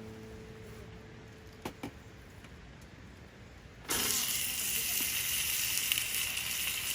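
The tail of a sustained musical note fading out, two faint clicks, then about four seconds in a sudden start of loud, steady sizzling: steak searing in a hot pan over a wood fire.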